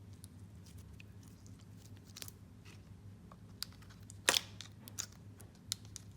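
Clear slime topped with fishbowl beads being poked and squeezed by hand: scattered soft crunches and clicks, the loudest about four seconds in.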